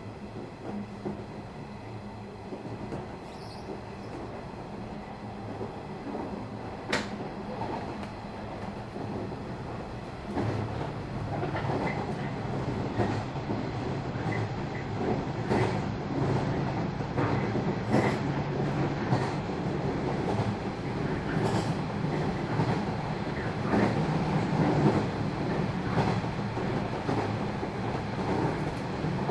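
Interior running sound of a JR 113 series electric train, heard from inside the KuHa 111 control car: a steady rumble of wheels on rail with a low hum and scattered rail-joint clacks, growing louder about ten seconds in.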